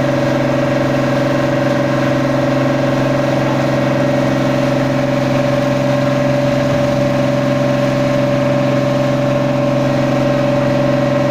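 Boat engine running steadily, a constant hum that holds one pitch without revving up or down.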